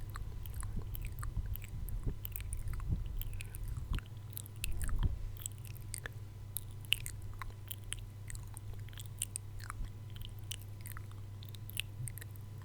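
ASMR mouth sounds close to the microphone: many irregular wet clicks and smacks, with no speech.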